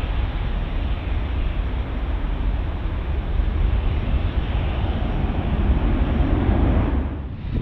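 Jet airliner engines running, a steady, even rumble and roar that dips and cuts off abruptly near the end.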